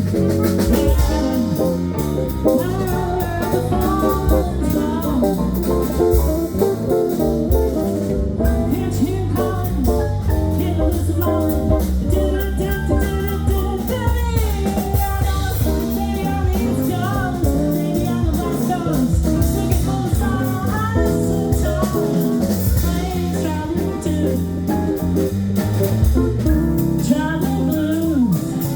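Blues band playing live: guitar lead with bending notes over bass and drum kit.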